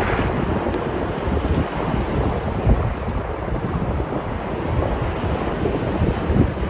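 Sea waves breaking and washing on the shore in a continuous rush, a little stronger right at the start. Wind buffets the microphone underneath.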